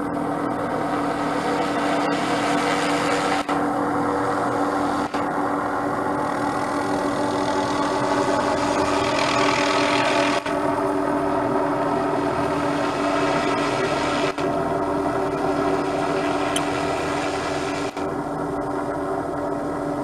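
MD500 turbine helicopter running steadily, a constant turbine whine over the rotor, with a hiss that swells and fades twice and a few very brief dropouts.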